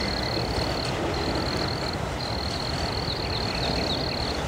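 Freight train of autorack cars rolling past slowly: a steady rumble of wheels on rail. A thin, high, steady squeal cuts in and out over it every second or so.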